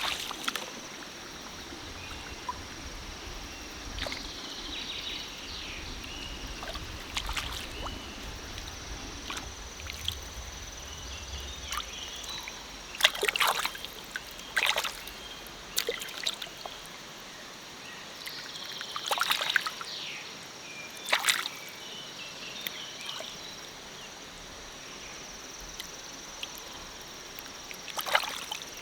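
Stream water sloshing, with a handful of sharp splashes spread through and a steady high-pitched tone running under it.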